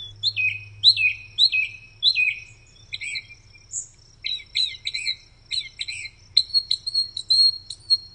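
Northern mockingbird singing: a string of short, varied phrases, each repeated several times before it switches to the next. The first phrases are quick downward-sweeping notes about twice a second; near the end comes a rapid run of short, high notes.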